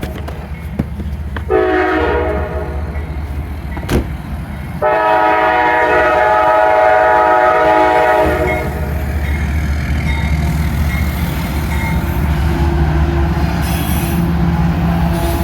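CSX diesel locomotive's air horn sounding a short blast, then a long blast of about three seconds, the end of the long-long-short-long grade-crossing signal. After the horn stops, the locomotive passes with a steady engine drone and rumbling wheels.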